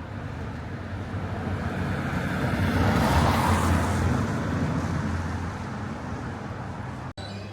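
Street traffic: a motor vehicle passes, its tyre and engine noise swelling to a peak about three seconds in, then fading.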